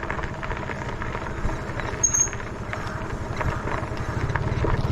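Wind rumbling on the microphone and rolling noise from an electric bike riding along a paved track, with a few faint clicks.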